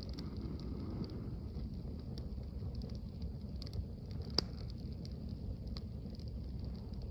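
Campfire crackling, with scattered sharp pops and one louder pop about four seconds in, over a steady low rumble.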